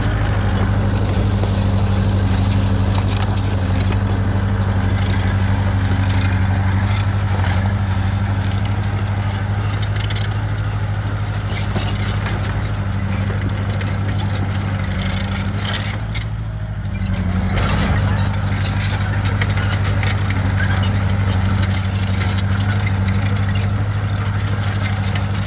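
Bulldozer's diesel engine running steadily, with metallic clanking and rattling. The sound dips briefly about two-thirds of the way through.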